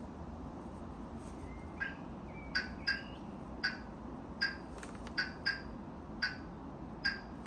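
Niu MQi GT electric scooter's turn-signal sounder playing a short high chirp that repeats about every three-quarters of a second, with a few extra chirps and brief whistles in between, over a steady low hum.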